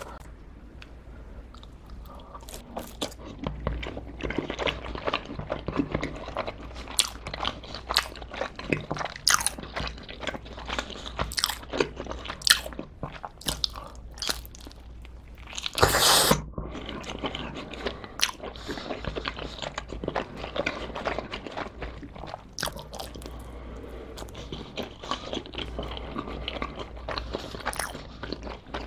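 Close-miked biting and chewing of pizza crust with a custard-filled edge: crisp crunches and wet mouth clicks. A louder, noisier burst of about half a second comes a little past halfway.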